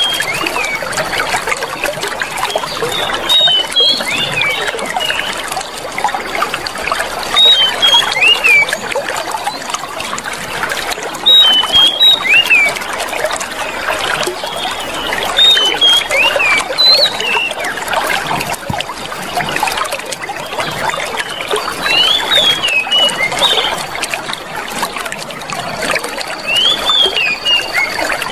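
Clear running water trickling and splashing steadily, with short high chirping notes every few seconds.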